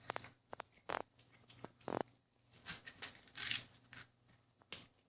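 A cat playing with a cheese ball: faint, irregular taps, scratches and rustles as it paws and bats at it.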